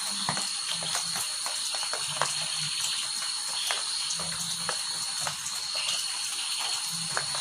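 Steady rainfall with many drops striking close by, over a steady high-pitched whine, and short low calls repeating every second or two.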